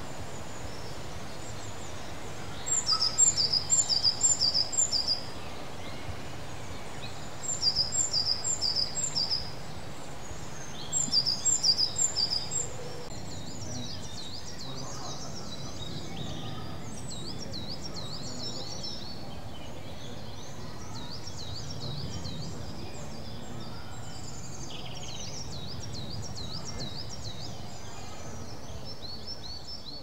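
Songbirds singing outdoors. One bird gives three loud phrases of quick, repeated bright notes, each about two seconds long, in the first half. Fainter chirps from other birds follow through the second half, over a steady low background rumble.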